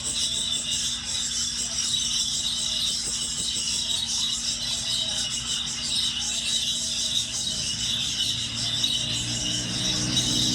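A flock of budgerigars chattering and warbling continuously, many birds at once, over a faint steady low hum.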